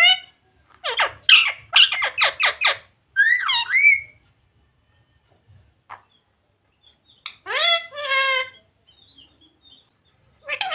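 Parrot squawking: a quick run of about six short calls, then a call that rises and falls in pitch, and after a pause of a few seconds one more call.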